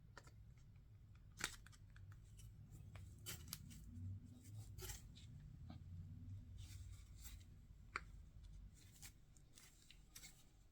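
Faint, scattered clicks and ticks of scale-model parts being handled and fitted together, a wing being fitted to the fuselage, over a low steady hum; two sharper clicks stand out, about a second and a half in and near eight seconds.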